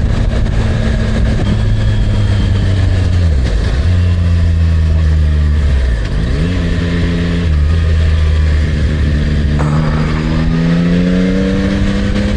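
Yamaha MT-09's three-cylinder engine running while riding, its pitch dropping twice and then rising steadily near the end as the throttle is opened.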